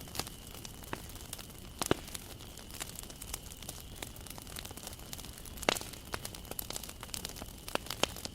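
Wood fire crackling, with irregular sharp pops over a low steady hiss as the burning wood snaps. The loudest pops come about two seconds in and again a little before six seconds.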